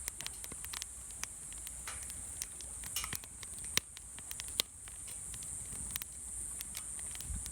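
Wood fire crackling in a fire pit: irregular sharp snaps and pops, two of them louder near the middle, over a steady high hiss.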